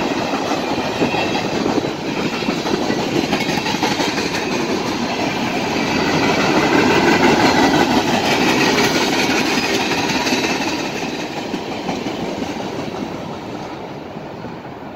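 Freight train of tank cars and covered hoppers rolling past close by, wheels running on the rails with a steady rushing clatter. It is loudest about halfway through and fades toward the end as the last cars pull away.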